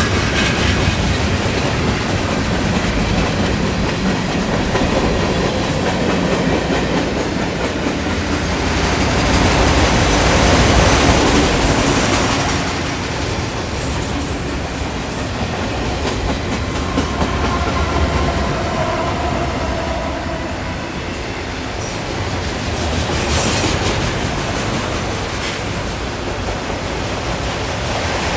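Long Norfolk Southern freight train rolling past at a grade crossing: a steady rumble and clatter of car wheels on the rails, with a faint wheel squeal about two-thirds of the way through and no horn.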